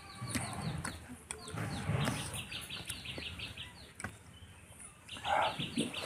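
A small bird chirping in quick runs of short high notes, about six a second, over the soft wet squish of a hand mixing rice and curry on a plate. A louder, lower sound cuts in about five seconds in.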